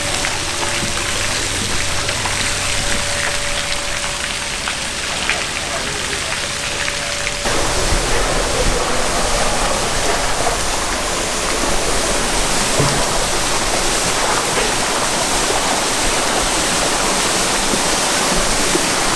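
Waterfall rushing: a steady rush of falling water, growing louder and deeper about seven and a half seconds in.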